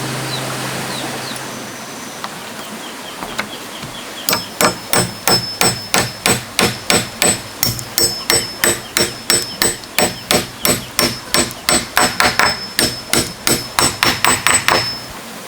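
Hammer driving nails into wood: a steady run of strikes, about three a second, each with a light metallic ring, starting about four seconds in and stopping just before the end.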